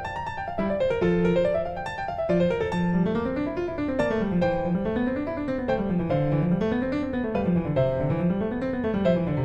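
Background piano music: rolling arpeggios that climb and fall in a steady, repeating wave.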